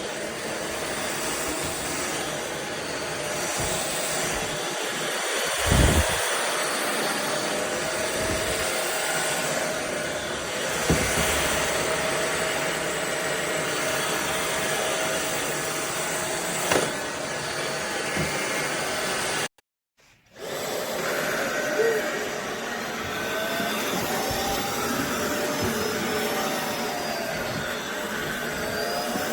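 Cordless stick vacuum cleaner running steadily, with a few short knocks and a brief cut-out about two-thirds through. Afterwards its pitch wavers slightly up and down.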